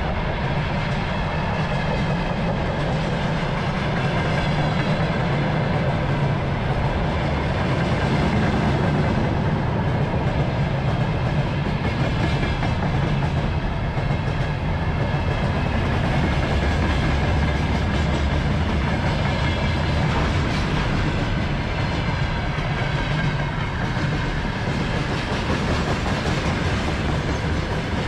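Freight wagons (gondolas and covered hoppers) rolling past close by, their steel wheels running steadily over the rails.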